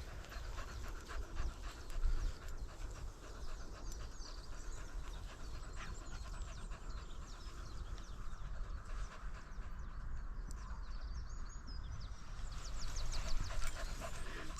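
Small dogs panting.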